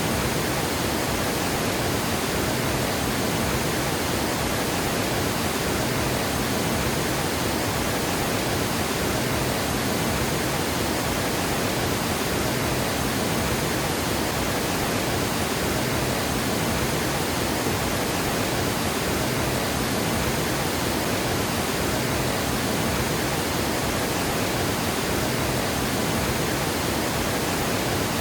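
Water gushing over a dam: a steady, unbroken rush of falling water.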